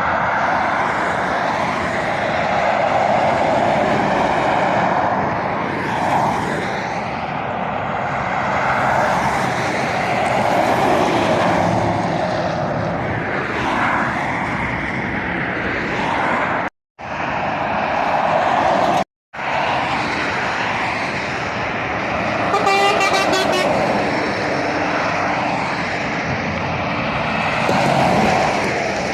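Heavy road traffic passing at speed, lorries and cars going by one after another in a steady wash of engine and tyre noise. A vehicle horn sounds once, about a second and a half long, well past the middle.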